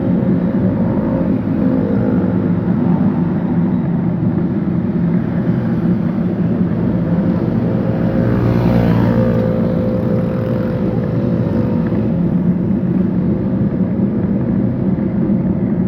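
Steady engine and road noise of traffic heard while riding, with a louder vehicle passing about eight to nine seconds in.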